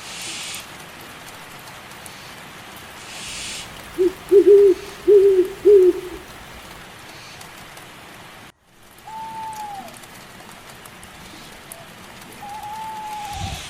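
Steady rain falling. About four to six seconds in, an owl gives a run of four low hoots, the loudest sound here. Later come two higher single calls, each one falling away at the end.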